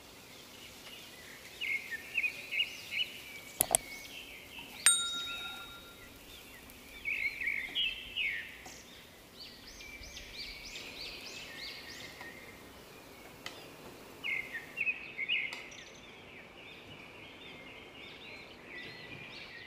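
Birds chirping in repeated bursts of short, high notes. Two sharp clicks come about four and five seconds in, the second ringing briefly like a metallic ding.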